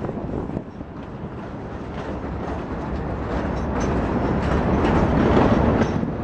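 Freight train of loaded scrap gondolas rolling past, its wheels clicking over the rail joints. The rumble grows louder toward the end.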